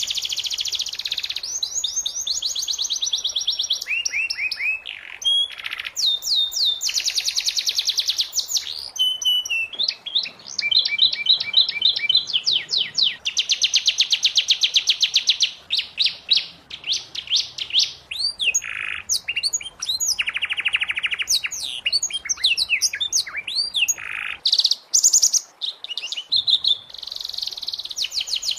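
Domestic canary singing a long, varied song of fast trills and rolling repeated notes, switching to a new phrase every second or two.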